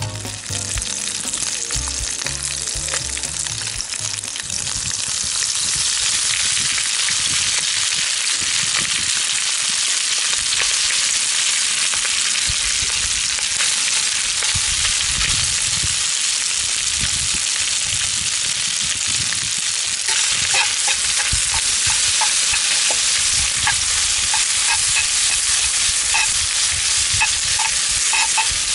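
Food sizzling in a frying pan, the sizzle getting louder about five seconds in, with light clicks of a utensil stirring in the pan during the last third.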